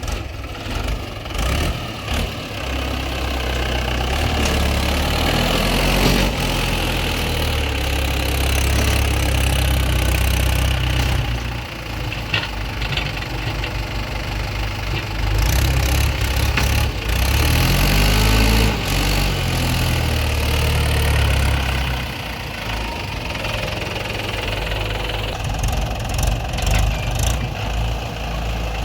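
Heavy diesel machinery engine running, idling and revving up under load in two longer stretches, its pitch rising and falling.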